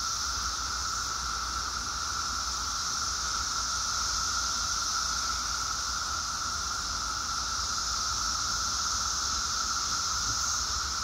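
Brood X periodical cicadas (17-year Magicicada) in a massed chorus: a steady, unbroken droning whine, a lower pitch layered under a higher hissing one.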